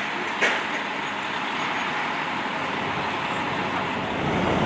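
Steady running noise of motor vehicles at a crash scene, with a single sharp knock about half a second in and a deeper engine rumble building near the end.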